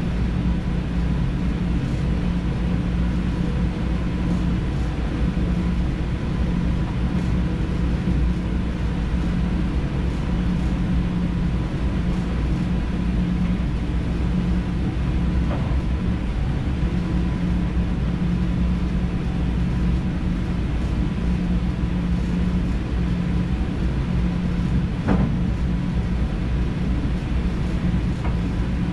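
NS DDZ double-deck electric train running, heard from the driver's cab: a steady rumble of wheels on rails with a faint constant whine. There are a couple of brief knocks, the louder one near the end.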